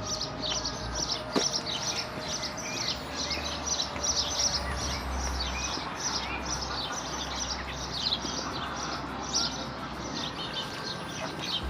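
Small birds chirping: a steady, quick run of short high chirps, about three a second.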